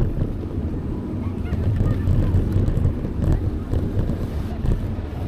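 Geese honking a few times over a steady low rumble of wind and motion on a moving bicycle's microphone.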